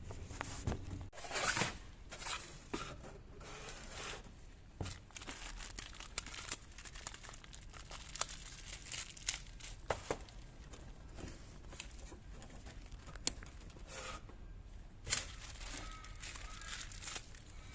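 Scattered clicks, light knocks and rustling as tools and parts are handled during engine timing chain work, with no regular rhythm.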